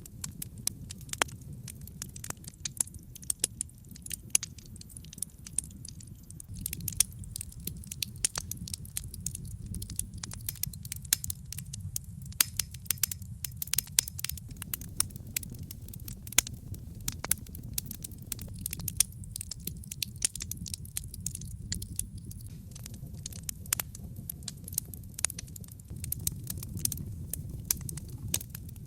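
Wood logs burning in a fireplace: a steady low rumble of flames with frequent sharp crackles and pops, several a second, some louder snaps standing out.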